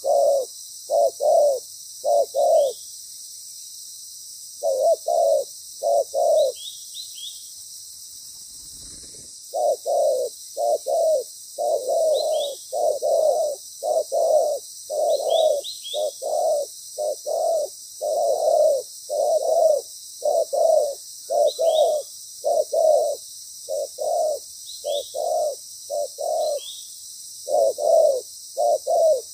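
Spotted dove cooing loudly and repeatedly in short phrases of two to four low notes, with two longer pauses in the first ten seconds. A few faint, short, falling chirps from a small bird come between the phrases over a steady high hiss.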